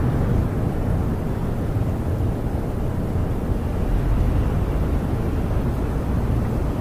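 Snowstorm wind blowing against a camper, heard from inside: a steady low rumble that rises and falls slightly.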